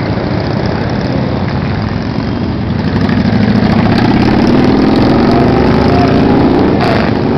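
Motorcycle engines running as the parade rides by. About three seconds in it gets louder, with one engine note rising as a bike accelerates.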